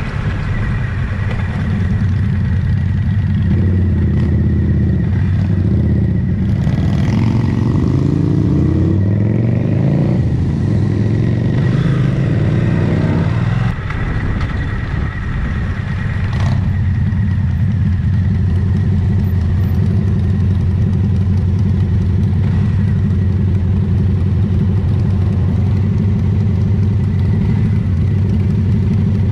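Motorcycle engine running under way, climbing in pitch through repeated runs of acceleration for several seconds, then dropping suddenly and settling into a steady cruise.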